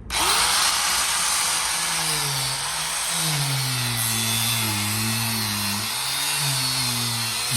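Angle grinder cutting into a billet rim, starting abruptly with a loud hiss; its motor pitch sags and recovers several times as the disc is pressed in and eased off.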